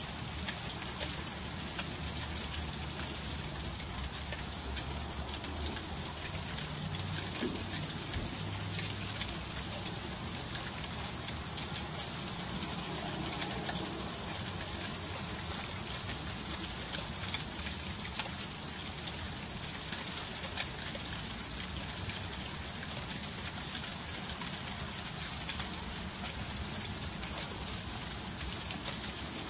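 Freezing rain falling steadily: a dense patter of tiny ticks over an even, high hiss.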